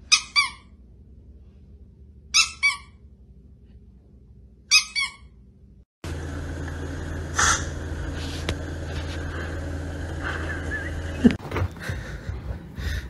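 Chihuahua giving three short, high yaps about two seconds apart. Then a steady hum begins abruptly and runs on, with a faint chirp in it.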